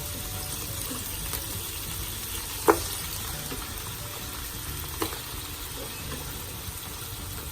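Beef pieces going into a pot of sautéed onion and tomato, frying with a steady sizzle. A utensil clinks sharply against the pot about two and a half seconds in, and more lightly about five seconds in.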